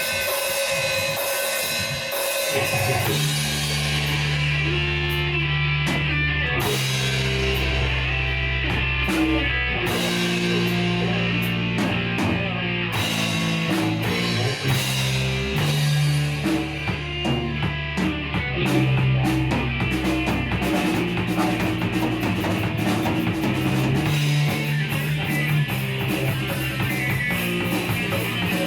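Instrumental introduction of a Japanese rock song: drum kit, electric guitar and bass playing a steady beat, with the bass line moving through long held notes.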